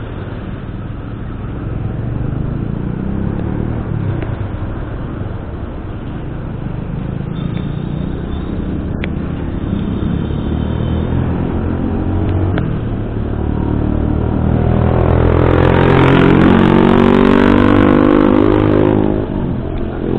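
Motor vehicle engine and road noise. From about 15 seconds in, an engine accelerates loudly with rising pitch for about four seconds, then drops back.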